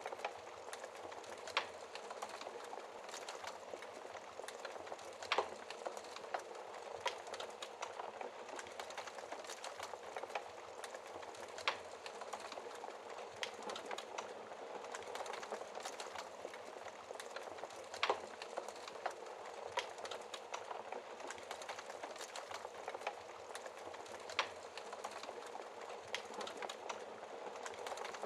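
Wood fire burning behind a fireplace's glass shield: a steady soft hiss with scattered crackles and a few louder pops.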